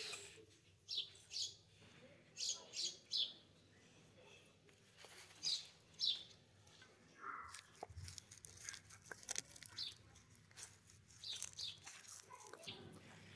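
Small birds chirping in short repeated calls, then a run of soft clicks and crunches from a tortoise biting and tearing at green leaves.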